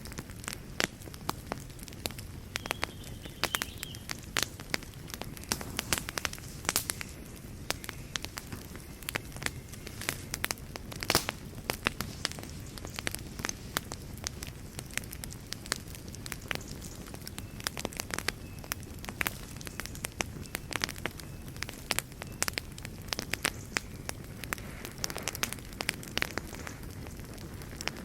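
Wood fire burning steadily in a fireplace, with frequent irregular crackles and pops over a low rush of flame.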